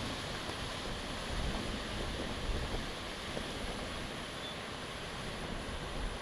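Steady wind noise on the microphone, with uneven low buffeting and no clear engine note.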